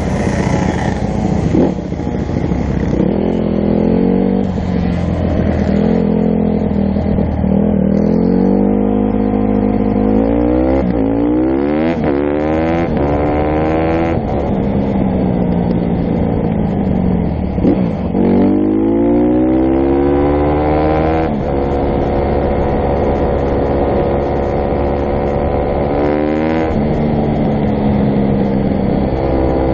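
Dirt bike engine running under way, revving up and easing off several times, its pitch climbing through each pull and dropping back at each shift or roll-off.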